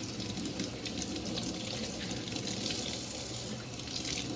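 Kitchen tap running steadily into the sink, with a few faint light clicks.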